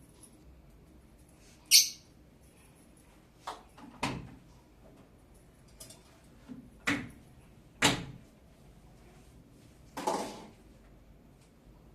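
A handful of irregular knocks and clatters, with one short sharp high-pitched sound about two seconds in.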